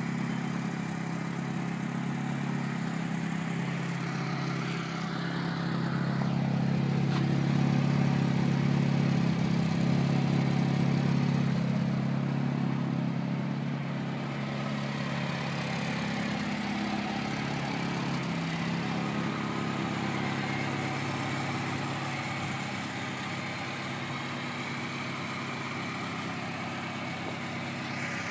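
Old Lada 2104 (Zhiguli) engine idling with a steady low drone, swelling louder for several seconds in the middle before settling back.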